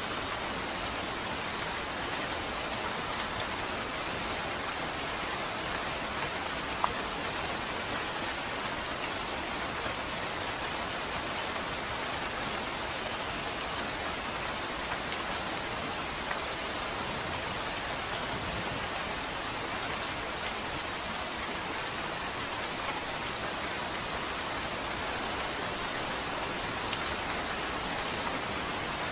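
Steady rain falling, with scattered drops ticking and one sharper drip about seven seconds in; no thunder.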